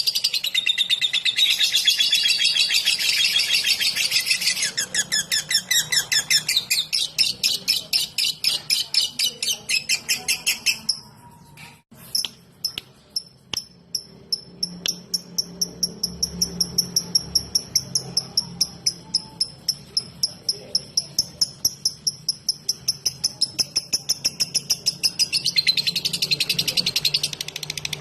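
Lovebird singing in the rapid 'ngetik' ticking style: a long, dense run of high chirps breaks off briefly about twelve seconds in. It then resumes as a fast string of short, evenly spaced chirps, about four a second, growing denser again near the end.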